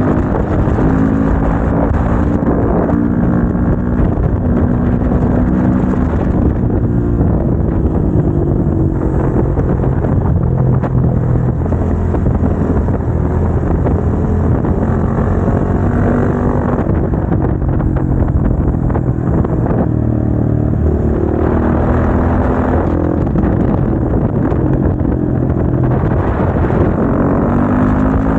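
Motorcycle engine heard onboard while riding, its pitch climbing and dropping again and again as it accelerates and shifts gears.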